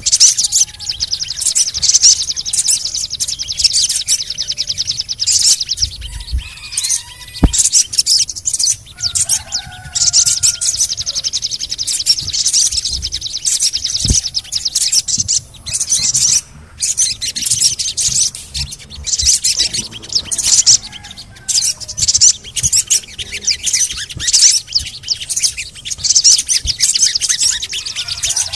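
Sogon bird song: long runs of rapid, high-pitched rattling chirps (the 'cret-cret' chatter), broken by short pauses, with a few fainter lower whistled notes in between.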